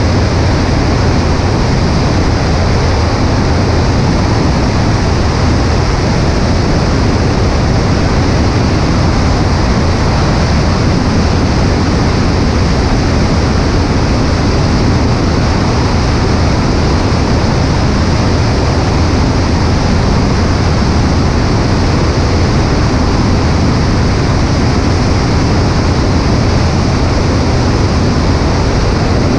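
Cessna 140A light aircraft in flight, heard from a microphone on the right wing: loud, steady wind rush over the mic with the propeller engine's low drone underneath, unchanging throughout.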